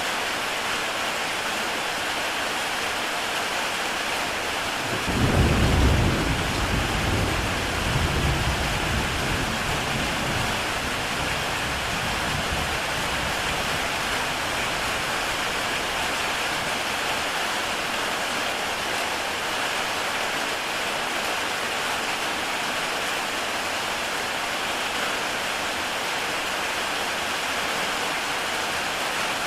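Heavy rain falling steadily on a tile roof, a constant hiss. About five seconds in a deep rumble of thunder breaks in suddenly, swells again a few seconds later, and dies away over about six seconds.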